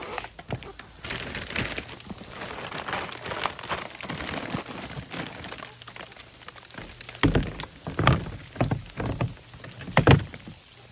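Crunching and crackling footsteps in snow: uneven scrunches, then a run of heavier steps about two-thirds of a second apart near the end.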